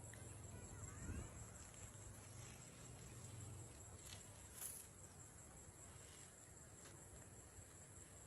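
Near silence: faint outdoor background with a steady high-pitched hiss and a few faint ticks.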